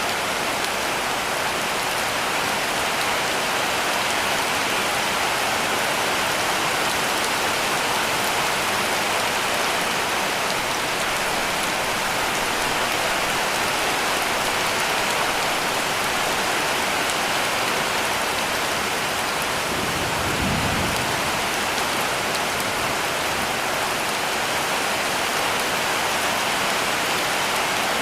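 Heavy rain pattering steadily on a cabin roof, with a brief low rumble about twenty seconds in.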